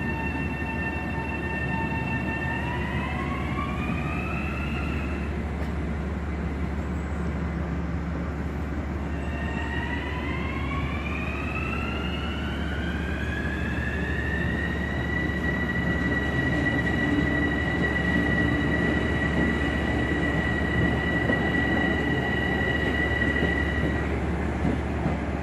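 Metro-North train pulling away: its electric traction motors give a steady whine that rises in pitch twice as the train gathers speed, the second rise levelling off and holding until near the end, over a steady low rumble.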